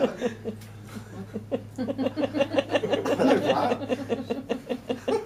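A person's voice making short, quickly repeated wordless sounds, like chuckling, starting about a second and a half in, over a faint steady low hum.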